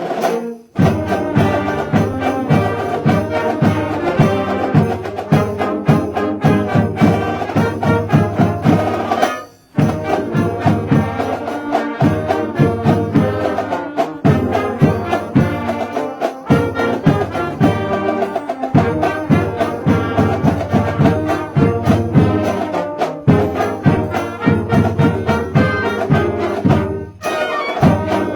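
High school marching band playing a holiday tune, with brass carrying the melody over drums beating steadily. The music breaks off briefly about half a second in, again just before ten seconds, and once more near the end.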